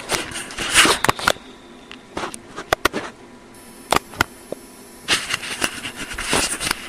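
Rustling handling noise with a scattered run of sharp clicks, loudest about a second in and again near the end.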